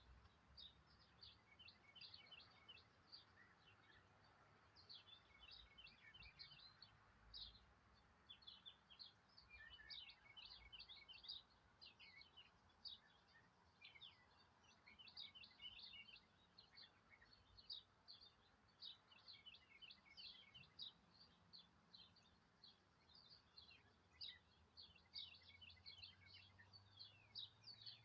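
Faint, busy chorus of small birds chirping: many quick, short, high-pitched chirps overlapping without a break.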